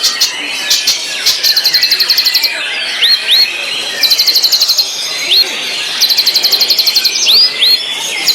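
White-rumped shama (murai batu) singing: three bursts of rapid, evenly repeated notes, about ten a second and each burst about a second long, with short upward-sweeping whistles in the pauses between them.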